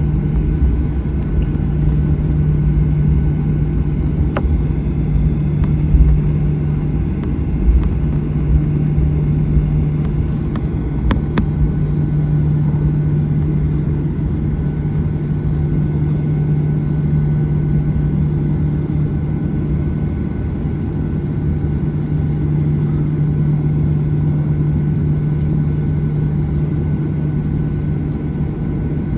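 Steady engine and airflow rumble inside the cabin of a Boeing 737-900ER, with a constant low hum and a few faint clicks about four and eleven seconds in.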